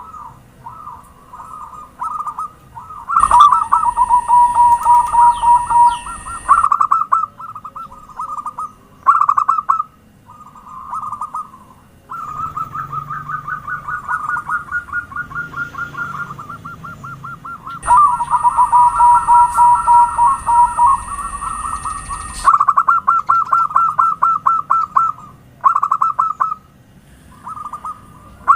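Zebra doves (perkutut) singing: rapid, pulsed coos at about one pitch, in repeated phrases of a few seconds, with louder phrases about 3 s in and again about 18 s in.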